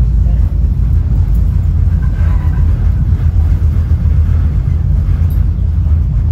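Ride noise of a Caltrain Gallery bilevel passenger car at speed, heard from inside the car: a loud, steady low rumble from the moving train.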